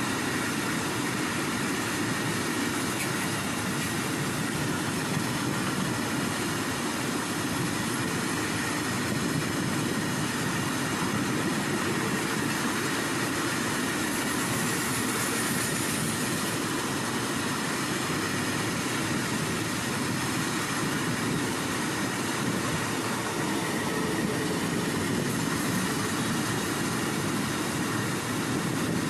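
Long freight train running along the track, a steady, even noise that does not rise or fall.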